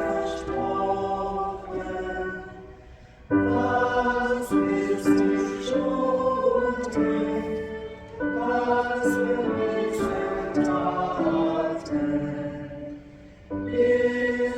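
Church choir singing a slow hymn in held notes. Phrases break off twice, about three seconds in and near the end, before the singing resumes.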